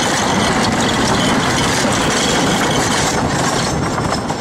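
Wooden roller coaster train running along the track: a loud, steady rumble and rattle of the wheels on the rails.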